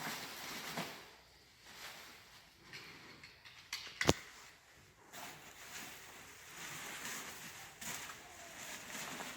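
Camouflage cover fabric rustling and scraping as it is handled and fitted over the boat, with one sharp click about four seconds in, like a fastener snapping shut.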